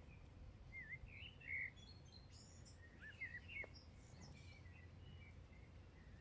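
Birds chirping with short scattered calls and swooping notes, loudest in two clusters about one and three seconds in, faint over a steady low background rumble.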